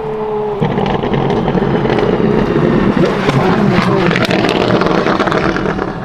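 Apollo IE's straight-piped, naturally aspirated V12 at full throttle, cutting in loudly about half a second in, with rapid crackles through the middle.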